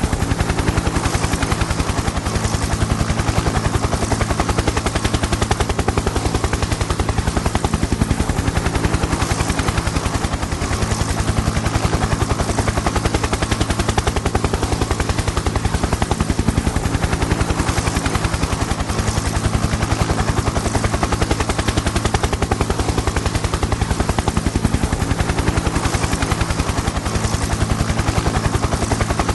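Helicopter in flight: a rapid, even chop of the rotor blades over a steady low hum, holding unchanged.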